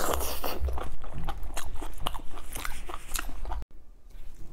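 Close-miked chewing of meat, with wet mouth noises and many small clicks. It cuts off abruptly about three and a half seconds in and gives way to softer eating sounds.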